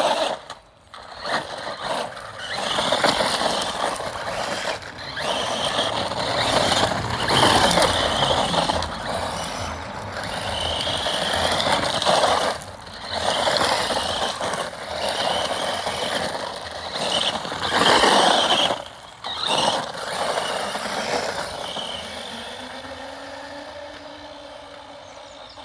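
Electric radio-controlled cars racing: a high motor whine that rises and falls with the throttle over a rough, noisy hiss, broken by several short sudden drops. The sound fades away over the last few seconds.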